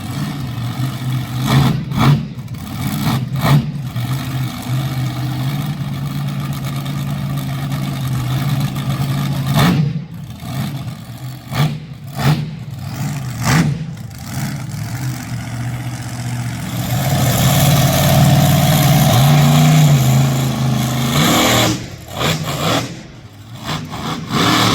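Monster truck engine running at a steady low rumble with short throttle blips, then revving harder for a few seconds about two-thirds of the way through.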